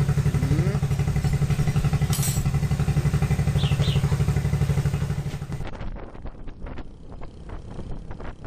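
A 70cc Honda single-cylinder four-stroke motorcycle engine running steadily with an even, rapid pulse. About five and a half seconds in it cuts off, giving way to quieter, irregular clatter.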